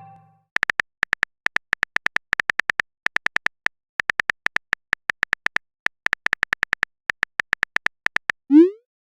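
Chat-animation typing sound effect: rapid short electronic ticks, about five or six a second, in runs with brief gaps. Near the end a short rising pop marks a message appearing.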